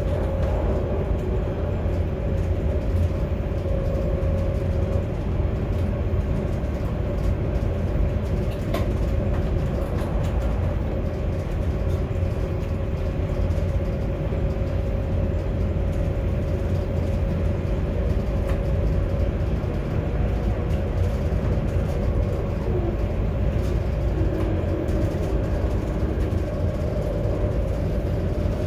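Train running steadily at speed, heard from inside the driver's cab: a constant low rumble with a faint steady whine over it and a few faint clicks.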